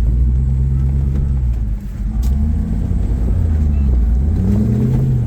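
Off-road rig's engine running under throttle while it crawls over rocks, its pitch dipping about two seconds in and then rising and falling again as it is revved. There is one sharp tick a little after the dip.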